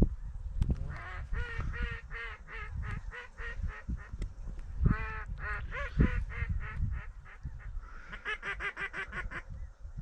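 Mallard-type quacking in quick repeated series of several calls a second, with a faster, even run near the end, over wind rumbling on the microphone.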